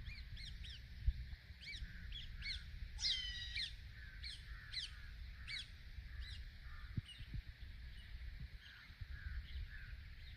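Birds calling: a run of short, sharp calls, about two a second, with a louder, longer call about three seconds in, then fewer and fainter calls toward the end.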